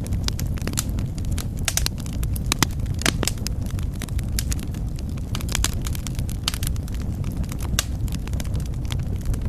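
Wood fire burning in a fireplace, with a steady low rumble of flames. Sharp crackles and pops come at irregular moments, several at a time in places.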